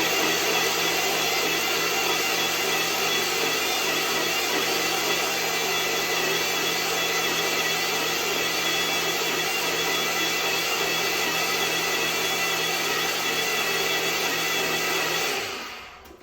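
Countertop blender running steadily, blending watermelon with water into juice. Near the end the motor switches off and spins down with a falling pitch.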